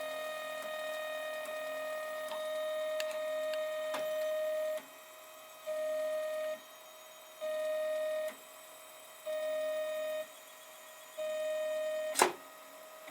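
3D printer stepper motors whining as they drive the axis: one steady run for about five seconds, then four short moves of about a second each with pauses between. A single sharp click comes near the end.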